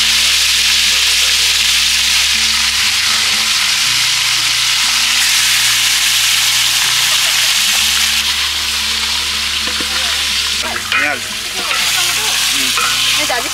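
Mutton pieces deep-frying in hot oil, a loud steady sizzle. Near the end a wooden spatula stirs and scrapes in the pot.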